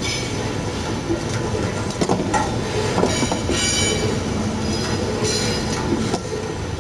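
Heat-shrink pen packaging machine running: a steady mechanical clatter with several short, high metallic squeals and clicks.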